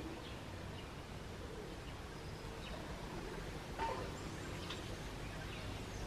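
Quiet outdoor birdsong ambience: a steady low hiss with a few short, faint bird chirps. The clearest chirp comes about four seconds in.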